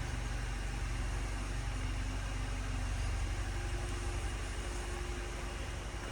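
A 2018 Chevy Cruze's 1.4-litre turbocharged four-cylinder engine idling steadily.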